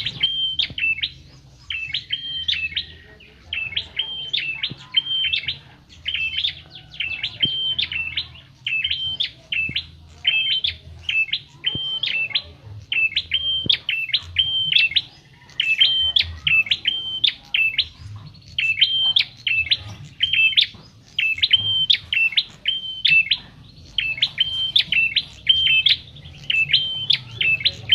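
A prenjak (small Javanese warbler sold as 'prenjak kepala merah') singing a short phrase of sharp, high chirps over and over, about one phrase a second, with a faint low hum underneath.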